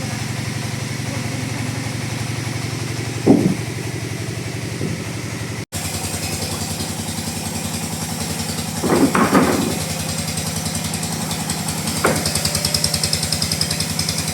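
Two-stroke chainsaw engine idling steadily, with a few short louder sounds over it, the loudest about nine seconds in.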